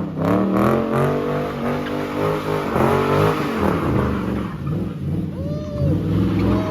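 Muscle car engine revving hard, the pitch climbing and dropping several times, with two short high squeals near the end.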